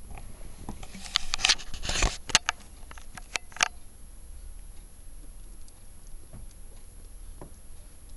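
A quick flurry of small clicks and scratches lasting about two and a half seconds, starting about a second in, then only a few faint ticks.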